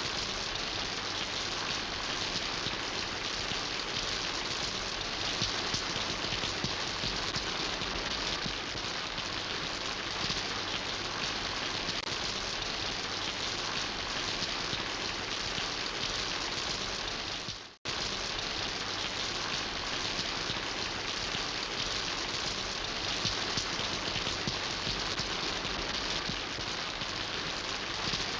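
Steady rain falling, a dense even patter of drops. About two-thirds of the way through the sound drops out abruptly for a split second, then resumes unchanged.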